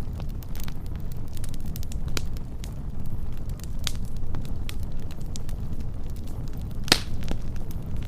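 Wood fire burning with a steady low rumble and scattered crackles and pops, the loudest pop a little before the end.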